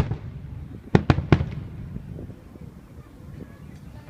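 Aerial fireworks shells bursting: one bang at the start, then three bangs in quick succession about a second in, each trailing off in a rumble.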